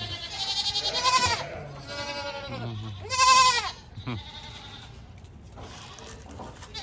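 Goats bleating: several wavering bleats one after another, the loudest about three seconds in, then a quieter stretch.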